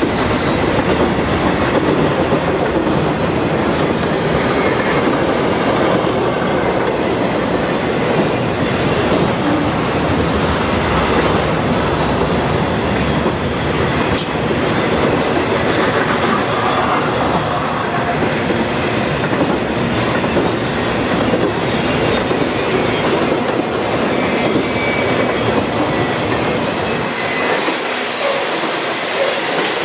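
Freight train cars rolling past, with a steady rumble and the clatter of wheels over the rail joints.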